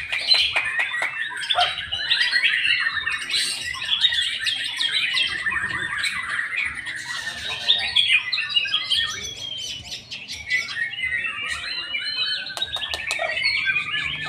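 A songbird singing a fast, continuous, varied song of rapid whistles, trills and chattering notes.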